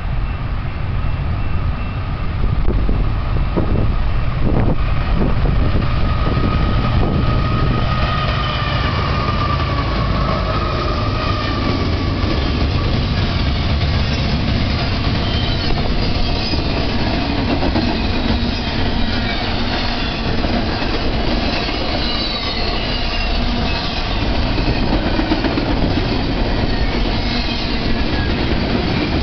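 BNSF double-stack intermodal freight train rolling past close by: a steady heavy rumble of wheels on rail, with thin high wheel squeals that waver and come and go from about a quarter of the way in.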